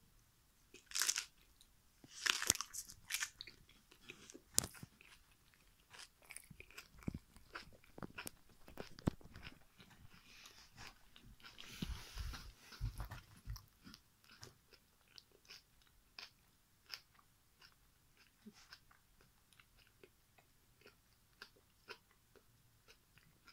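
Someone biting into and chewing an unpeeled banana: a few loud crunching bites in the first five seconds, then steady chewing with many smaller mouth clicks that thin out toward the end. Around the middle there is a longer noisy stretch with low thumps.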